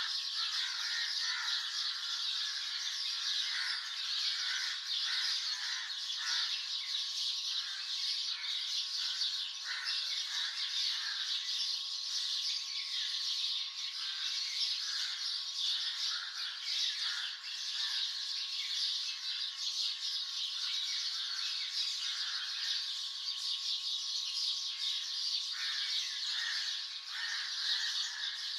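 Dawn chorus: many songbirds chirping and calling at once, a dense, unbroken layer of short overlapping notes.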